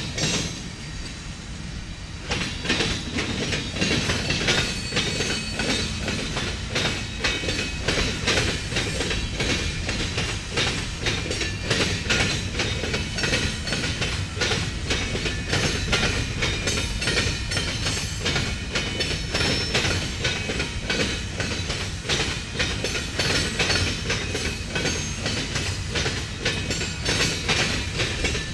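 Freight cars rolling past at track speed, their steel wheels clattering over a railroad diamond crossing in a fast, steady run of clacks.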